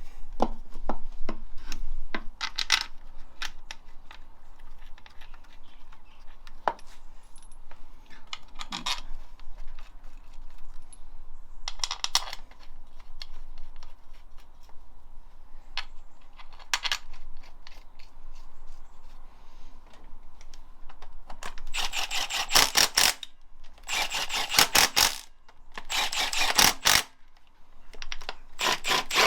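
Scattered metal clinks of bolts and hand tools being handled, then four short bursts of rapid ratchet clicking as bolts are wound in.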